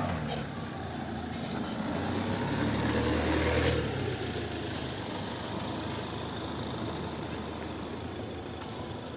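A motor vehicle's engine rumbling past, building to its loudest about three and a half seconds in and then fading.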